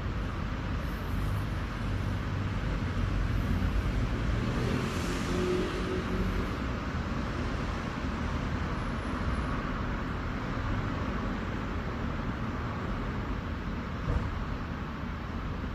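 Urban traffic noise: a steady rumble of road vehicles, swelling as one passes close by about four to six seconds in, with a brief knock near the end.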